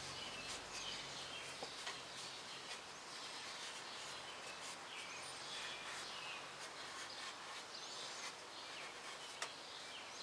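Faint birds chirping and twittering in the background, with a couple of light clicks and a low hum that fades out about a second in.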